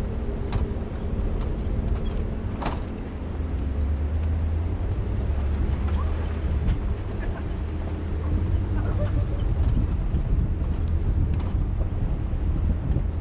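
2020 Ram 1500 Rebel with a truck camper crawling slowly over a rough trail: a steady low rumble of the running truck. Occasional sharp knocks and rattles ring out, the clearest twice early on.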